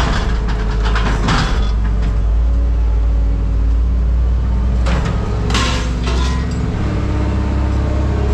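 An engine running steadily with a constant low drone, with a few short rushes of noise about a second in and again around five to six seconds in.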